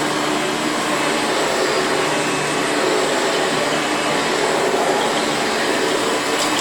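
Hoover Preferred upright vacuum cleaner running steadily while vacuuming up sand: an even rush of air over a low motor hum.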